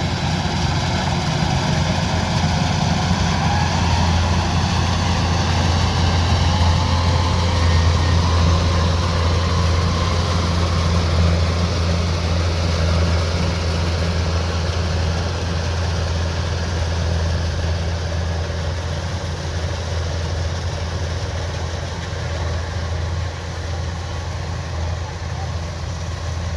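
Kubota DC-105X combine harvester's diesel engine running steadily with a deep hum, a faint whine drifting slightly in pitch above it. It grows a little louder about six to ten seconds in and eases off toward the end.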